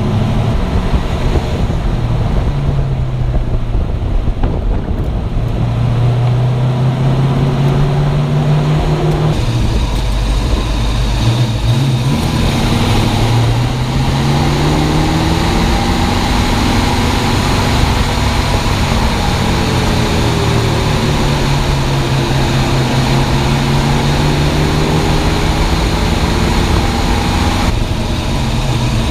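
A 1965 Mustang driving on the road. The engine note rises and falls several times with the speed changes, over steady tyre and road noise.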